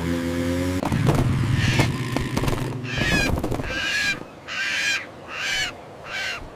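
Seagulls squawking: a run of about seven short, arched calls, roughly one every second or less. Under the first calls is a low rumble with clattering clicks that stops about four seconds in.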